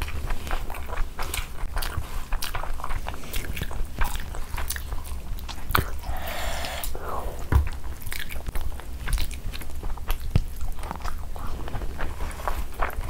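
Close-miked chewing and wet mouth sounds from eating spicy chicken curry and rice by hand, with the squish and rustle of curry-soaked rice being mixed by hand on a banana leaf. Irregular small clicks and smacks run throughout.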